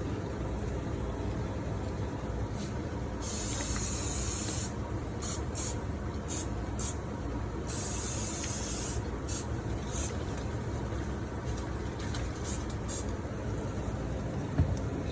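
Aerosol vegetable-oil cooking spray hissing onto floured chicken pieces in bursts: two longer sprays of about a second and a half and several short puffs, over a steady low rumble. A single knock near the end.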